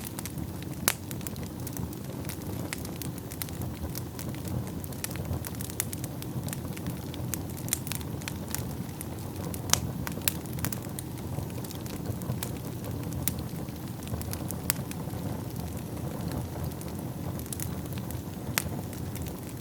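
Wood fire burning in a fireplace: a steady low rushing of flames with frequent sharp crackles and pops, a few of them louder than the rest.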